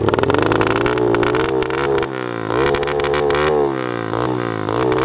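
Small single-cylinder pit bike engine revving, its pitch rising and falling a few times and dropping away about three and a half seconds in.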